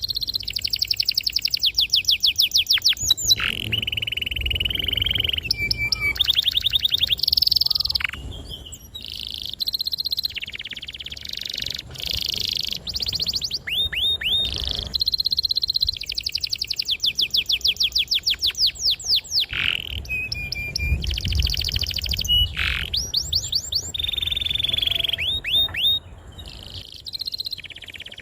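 Domestic canary singing a long, continuous song: fast trills and rolls of rapidly repeated notes, broken by held whistled tones, changing phrase every second or two.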